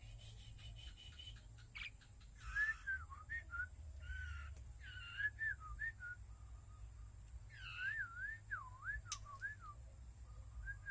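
A caged songbird giving clear whistled notes in short phrases, the pitch sliding up and down in quick wavy loops. There is a single sharp click about nine seconds in, over a steady low hum.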